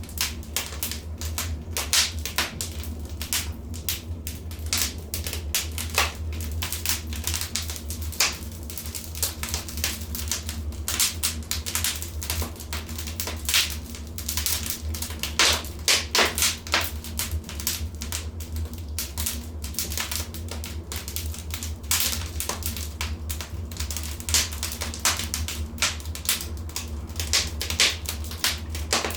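Wood fire in a fireplace crackling, with irregular sharp pops and snaps, several louder than the rest, over a low steady rumble.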